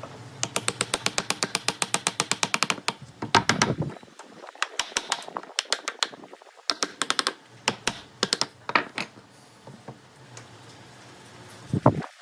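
Workshop power tool running in bursts, a low motor hum under rapid, even clicks of about nine a second, stopping and starting several times.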